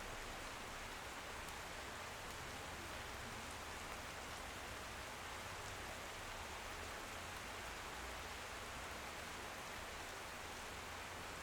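Steady rain against a window: an even hiss with faint, scattered drop ticks, unchanging throughout.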